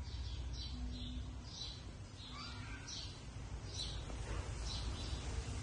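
Birds chirping in the background: short high chirps repeating about once a second over a steady low rumble.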